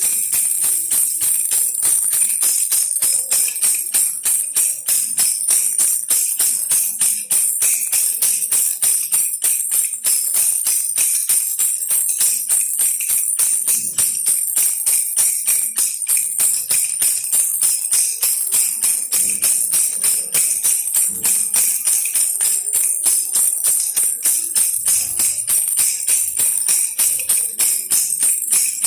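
A baby rattle toy shaken over and over in a steady, even rhythm, giving a bright, continuous jingling rattle.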